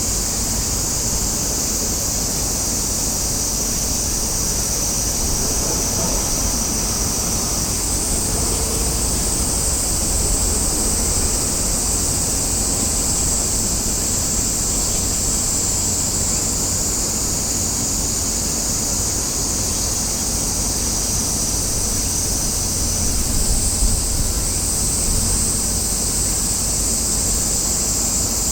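Steady outdoor background noise: a constant high-pitched hiss or buzz over a low rumble, with no distinct events.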